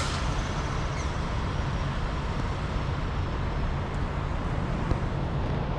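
Steady low rumble of vehicle engines and road traffic, with a brief click about five seconds in.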